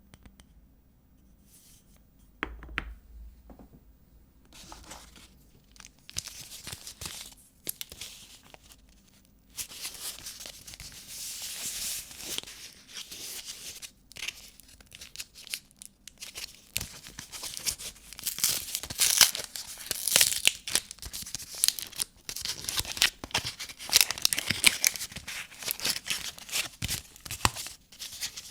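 A vintage soap bar's wrapper being torn open and crinkled by hand. After a few faint clicks of handling, a continuous crackling and tearing sets in about ten seconds in and grows louder past the middle, with many sharp crinkles.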